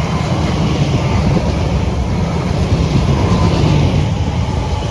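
Elizabeth line Class 345 electric multiple unit passing, a steady heavy rumble of wheels on rail with a faint steady whine above it.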